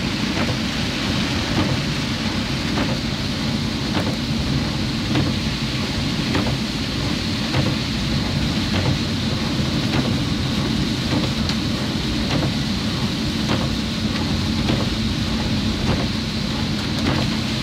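Heavy rain pouring steadily around a moving vehicle, over a low steady engine hum, with a light tick repeating about every 1.2 seconds.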